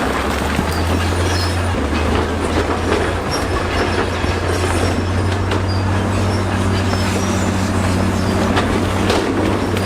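Crawler bulldozer working: steady diesel engine drone with steel tracks clanking, rattling and squealing. The engine note shifts about two seconds in.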